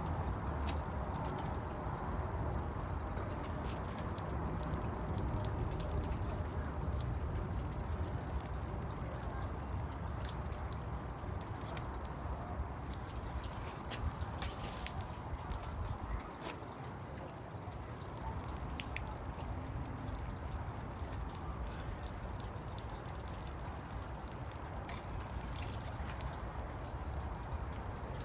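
Wind buffeting the microphone in a strong uneven rumble, with water trickling and dripping in small ticks.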